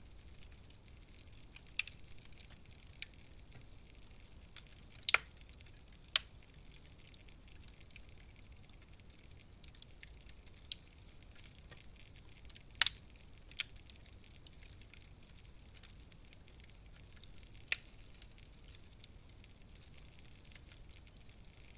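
Wood fire crackling in a fireplace: irregular sharp pops, a few of them loud, over a low steady hiss.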